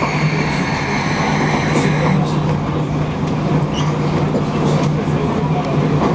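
Passenger train running along the line, heard from inside the carriage: a steady low rumble with a high whine that fades out about two seconds in.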